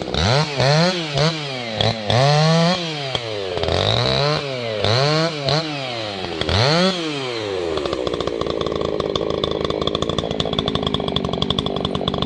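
Two-stroke chainsaw revved up and back down several times in quick succession, then running steadily at a constant pitch from about eight seconds in.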